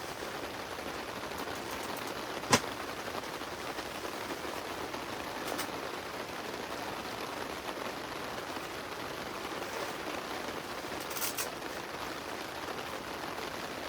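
Steady rain falling on the fabric of an inflatable tent. One sharp tap stands out about two and a half seconds in, and a couple of fainter ticks follow later.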